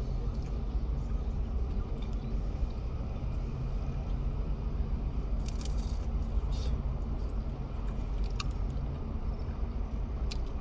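A steady low engine rumble with scattered small clicks, and a short hiss about five and a half seconds in.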